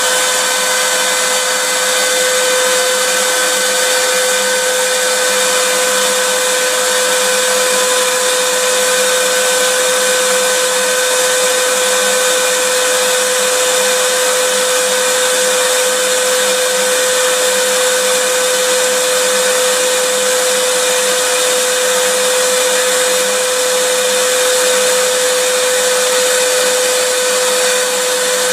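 Vacuum cleaner motor running steadily: an unchanging hum-whine over a rush of air.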